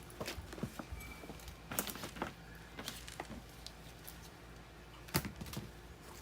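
Scattered light clicks and knocks of metal parts being handled while a furnace blower motor is fitted into its mount, with one louder knock about five seconds in, over a steady low hum.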